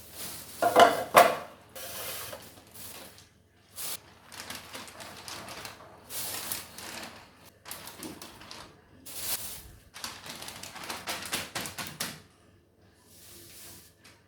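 Irregular rustling, clicks and light knocks of fruit, plastic bags and containers being handled and set onto a fridge shelf, with a louder clatter about a second in.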